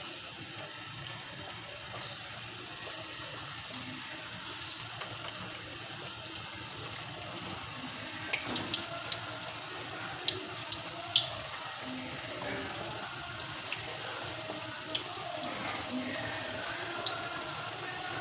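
Balushahi dough rings frying slowly in ghee over a low flame: a steady bubbling hiss with scattered sharp crackles and pops, most of them about halfway through and a few near the end.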